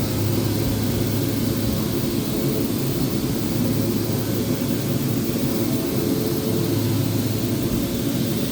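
Electric power sander running steadily on a wooden top, a continuous motor hum with sanding hiss.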